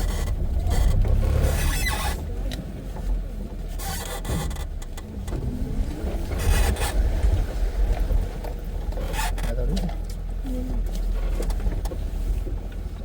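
Safari vehicle driving along a rough forest dirt track: a steady low rumble with irregular bursts of noise from wind on the microphone.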